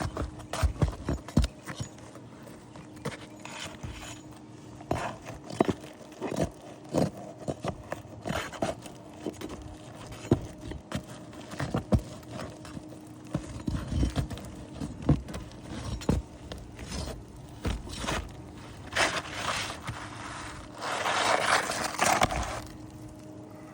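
Nails being pried out of roof shingles: irregular sharp knocks, clicks and scrapes of a tool working against the shingles, with a longer scraping rush near the end. A faint steady hum runs underneath.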